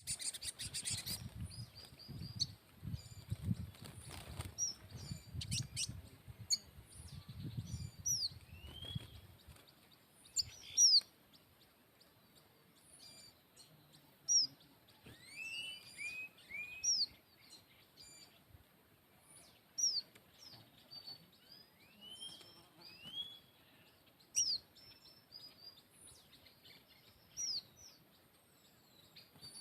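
Small birds chirping: short, high, sweeping calls that come every second or so. A low rumble of wind or handling noise runs under them for about the first nine seconds.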